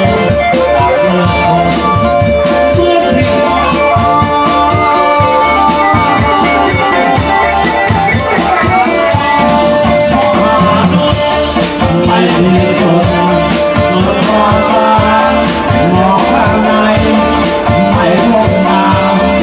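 Band playing an instrumental break of a Thai lae song: an electronic keyboard carries the melody over bass and a steady drum beat.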